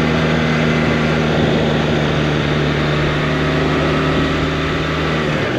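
Honda CB450T's parallel-twin engine running at a steady cruise under way, pretty quiet, over a steady rush of wind. Near the end the engine note drops slightly, as the throttle eases.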